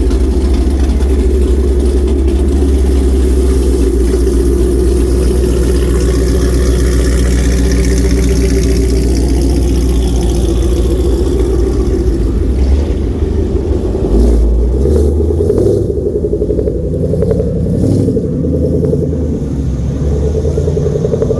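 A car engine running loudly, with a steady low rumble; its pitch shifts and the note changes about two-thirds of the way through, as the engine is revved.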